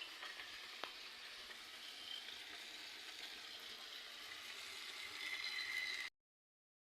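Aloo matar curry sizzling in the pan: a steady, low hiss with a faint click about a second in. The sound cuts off abruptly near the end.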